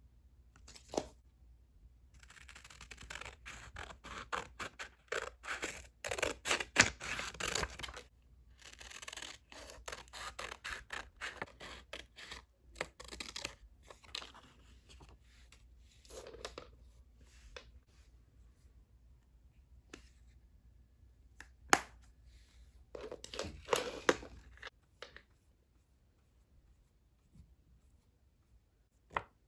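Scissors cutting paper in runs of quick snips, with a few sharp clicks between them.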